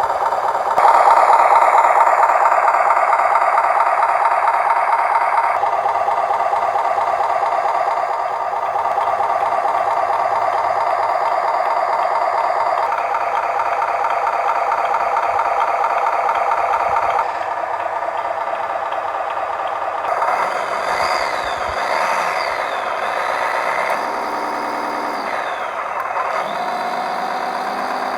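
1:24-scale RC tractor truck running, a steady rattling whir that steps up and down in pitch a few times, then rises and falls repeatedly in the last third as its speed changes.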